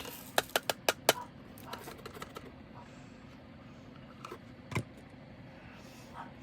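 Diamond-painting drill bags and small plastic containers handled on a table: a quick run of sharp clicks and taps in the first second, a few softer ticks, then one more tap near five seconds.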